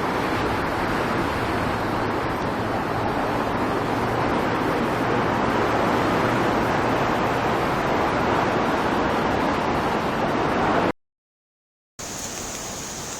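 Steady rushing of fast-flowing floodwater, an even noise with no distinct events. About eleven seconds in the sound cuts out completely for about a second, then returns as a quieter steady rush with a faint high hiss.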